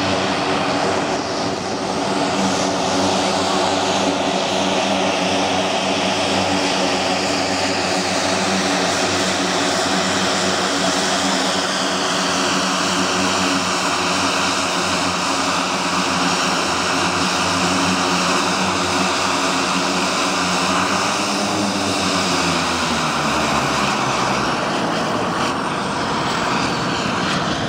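A BAe Jetstream 32's twin Garrett TPE331 turboprops run with a steady propeller drone and turbine whine. About 21 seconds in, the propeller tones fall in pitch, and near the end a high whine glides downward as the engines wind down.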